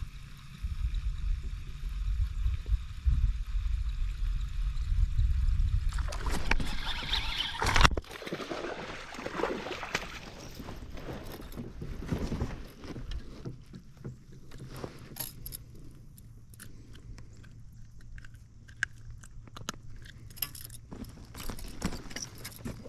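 Kayak fishing sounds: wind rumbling on the microphone for the first several seconds, then an abrupt change to small knocks, clicks and rattles of gear handled in a kayak over light water noise.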